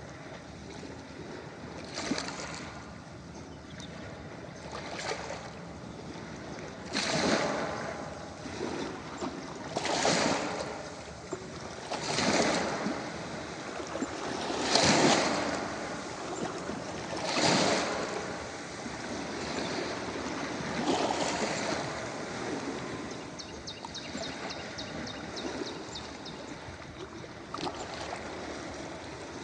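Ocean waves breaking and washing up a beach, surging every two to three seconds over a steady hiss of surf. The strongest surge comes about halfway through, and a fine crackle comes in near the end.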